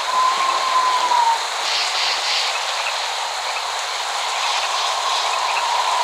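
Steady rain hiss, with no thunder rumble, and a thin steady high tone during the first second or so.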